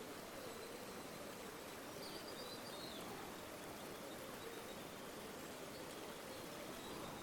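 Steady rush of a flowing river, with a few faint high bird chirps about two seconds in.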